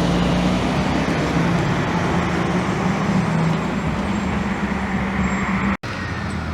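Road traffic noise with a steady low engine hum, without speech. The sound cuts out completely for an instant near the end, then resumes slightly quieter.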